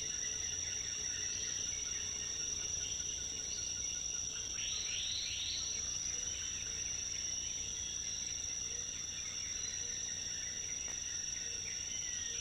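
Rainforest insect chorus: a steady high-pitched trilling with several fainter steady tones beneath. A short run of quick falling calls comes about five seconds in.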